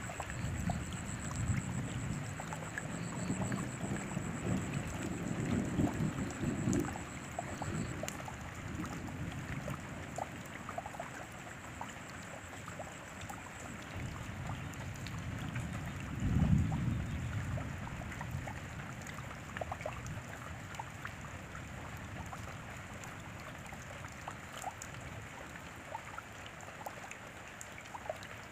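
Steady rain falling, with individual drops ticking through it, and low thunder rumbling through the first several seconds and again briefly about halfway through.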